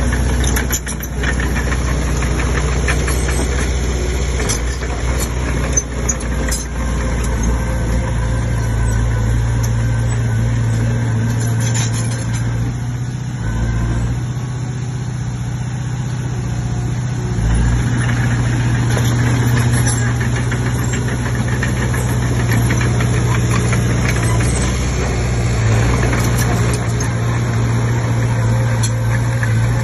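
Komatsu D20P bulldozer's diesel engine running with a steady low drone that thins briefly about halfway through and then picks up again, with a few sharp clicks in the first several seconds.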